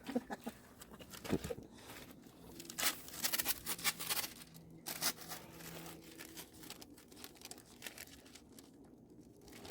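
Masking material crinkling and masking tape tearing in irregular bursts as a car panel is masked off against overspray before painting.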